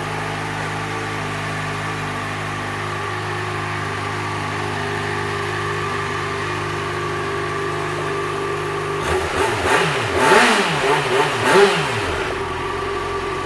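2012 Yamaha FZ6R's 600cc inline-four on its stock exhaust idling steadily, then revved a few times in quick succession about nine seconds in, the pitch rising and falling with each blip before settling back to idle.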